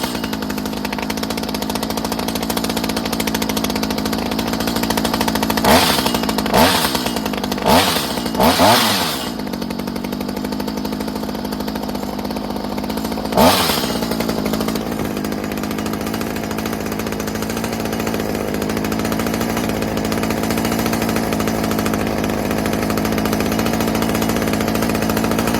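Stihl HS45 hedge trimmer's two-stroke engine idling steadily, with short throttle blips: four quick revs about a quarter to a third of the way in and one more about halfway. It is running on a freshly rebuilt carburetor fitted with a new diaphragm.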